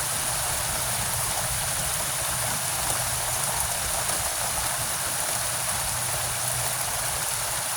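Heavy rain falling steadily, with water rushing out of a rain gutter in a continuous, even wash of noise.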